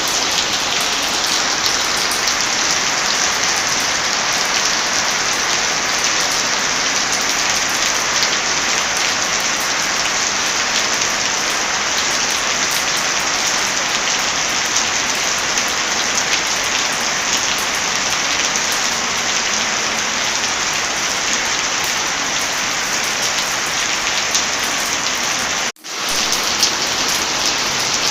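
Heavy rain falling in a steady dense hiss of drops. Near the end it cuts out for a split second and comes straight back.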